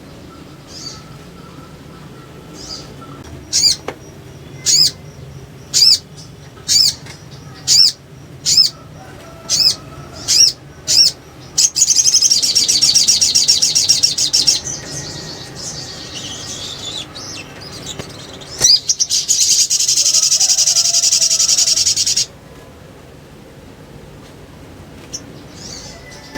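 Little spiderhunter calling: a run of sharp, high single notes about one a second, then two long, fast, chattering trills a few seconds apart.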